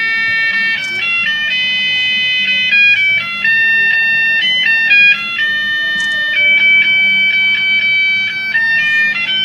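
A simple electronic tune of high, beeping notes that step from pitch to pitch, with a stretch of quickly repeated notes a little past the middle.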